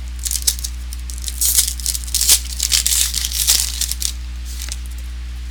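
Trading cards being handled: a quick run of dry rustles, slides and clicks as cards are flicked through or against each other, stopping about four seconds in. A steady low electrical hum underlies it.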